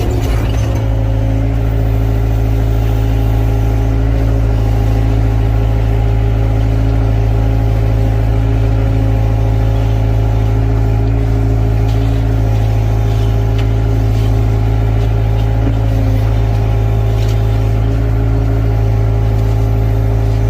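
Excavator engine running steadily with a deep, even hum that holds the same pitch and level throughout.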